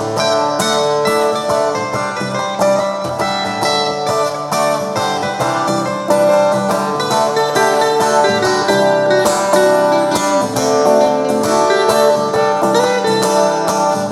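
Instrumental guitar jam: quickly picked melodic guitar lines over sustained strummed chords, with no singing.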